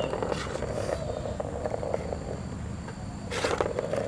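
A cat's steady, fast-pulsing rumble close to the microphone while it plays with a toy, with short rustles from the toy, the loudest a little over three seconds in.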